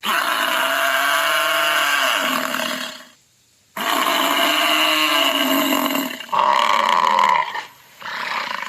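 Animal roar sound effects: two long roars of about three seconds each, their pitch rising and then falling, followed by shorter calls.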